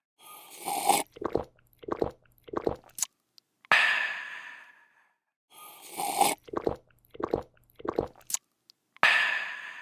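A person slurping a drink, swallowing in three gulps, a short click, then a long refreshed 'aah' exhale. The sequence plays twice: two slurp-and-gulp runs and two 'aahs', the second 'aah' near the end.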